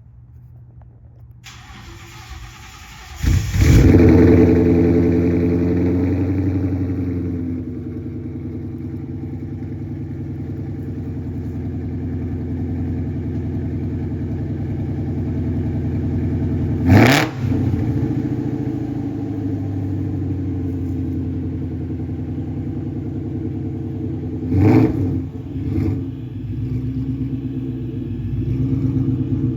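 2017 Mustang GT's 5.0 V8 through a SATT cat-back exhaust with quad tips, starting up about three seconds in with a loud flare and then settling to a steady idle. It is blipped twice later on, with a sharp rev each time and a smaller blip right after the second.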